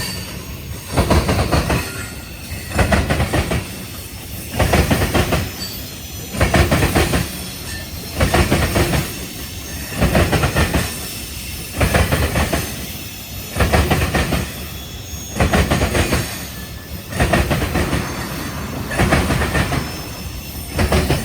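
Freight train cars rolling past, their wheels clattering over the rail joints. The clatter comes in a regular beat, a loud burst about every two seconds with a steady rumble in between.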